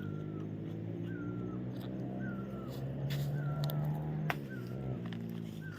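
A bird calling one short, hooked note over and over, about once a second, over the steady hum of a motor that swells about three seconds in and eases off a second later. A couple of sharp knocks are heard, the loudest about four seconds in.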